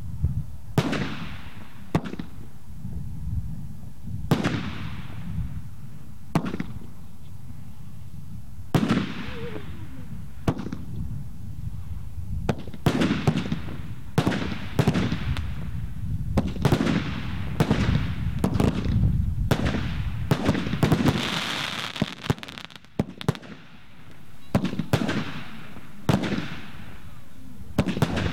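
Consumer fireworks display: a rapid series of loud bangs from shells and cake shots bursting, roughly one every second or two, each trailing off into an echo over a steady low rumble. About two-thirds of the way through a hissing crackle rises, then there is a short lull before the bangs resume.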